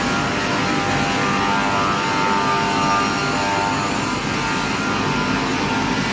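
Woodworking machine running steadily: a constant mechanical noise with a steady whine on top.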